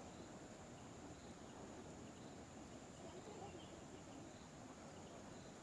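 Near silence: faint outdoor ambience with insects chirping and a thin, steady high-pitched insect drone.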